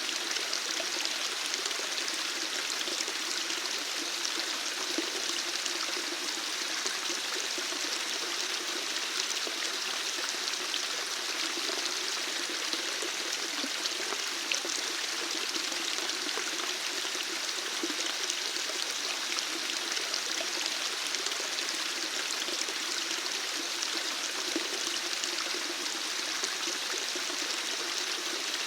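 Running water flowing steadily, an even rushing hiss with small splashes scattered through it.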